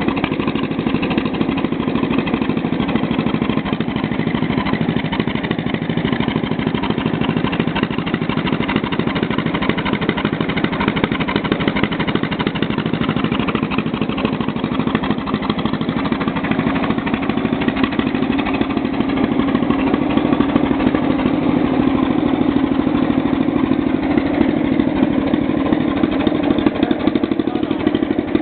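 Engine of a 1944 John Deere Model LA tractor, a small two-cylinder, running steadily. It gets a little louder about two-thirds of the way through.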